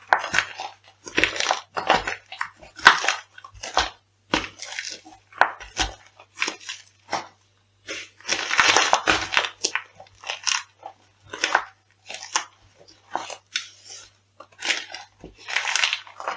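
Crisp food being crushed underfoot, crunching and crackling in short, irregular bursts, with a longer stretch of crackling about halfway through.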